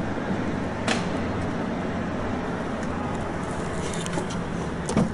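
Steady low hum and rush of outdoor background noise, with a sharp click about a second in and another near the end.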